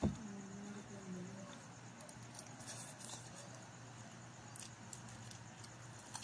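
A knock at the start, then a short hummed 'mm' from a voice, and faint clicks of fish crackers being crunched and chewed over a low steady hum.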